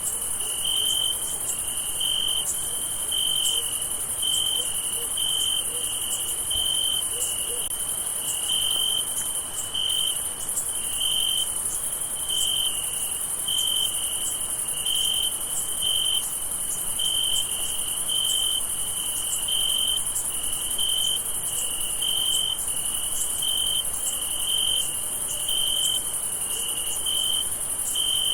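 Night chorus of crickets: one cricket chirping in a regular pulse, about one to two chirps a second, over a steady high-pitched trill from other insects.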